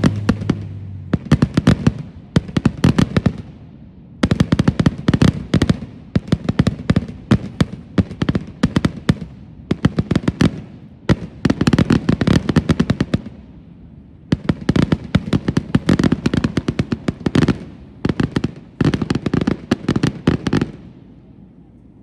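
Fireworks crackling: rapid strings of sharp pops in bursts of one to two seconds with short gaps between them, stopping about 21 seconds in.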